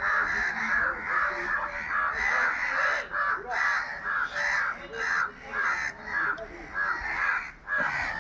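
A continuous run of short, harsh animal calls, repeated about twice a second without a break.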